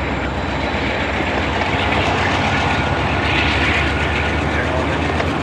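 Norfolk Southern freight train rolling by, a steady noise of wheels on rail.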